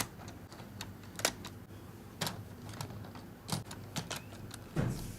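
Irregular small clicks and knocks of a plastic Hornby HST 125 model train being handled and set onto its track, with a cluster of louder knocks near the end.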